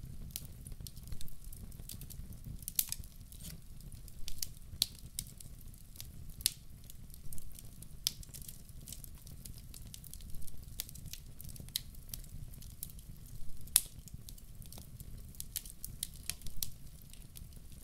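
Wood campfire crackling: irregular sharp pops and snaps, one louder pop near the end, over a steady low rumble.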